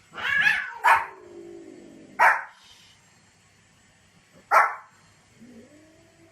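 A dog barking on command in single short barks, four in all, spaced a second or two apart.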